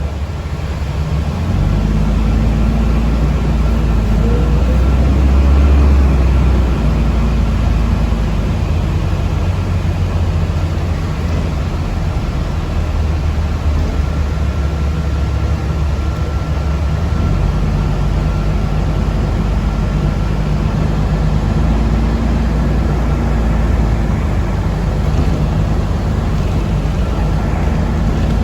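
Steady low rumble of a city public-transport vehicle driving, heard from inside the passenger cabin. The rumble grows heavier a couple of seconds in, and a faint steady high whine runs under it.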